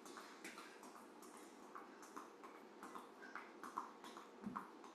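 Faint, quick taps of running shoes landing on the floor as a person hops lightly from one foot to the other, several soft footfalls a second.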